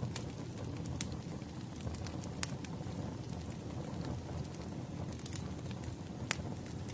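Wood fire crackling: a steady low rumble of burning logs with a few sharp pops at irregular moments, the strongest about a second in, about two and a half seconds in, and a little after six seconds.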